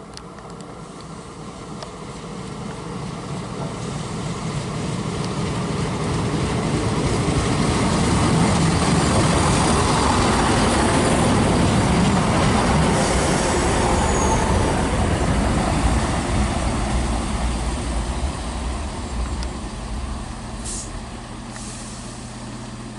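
A train passing through the station: its rumble grows steadily louder, peaks around the middle, then fades away.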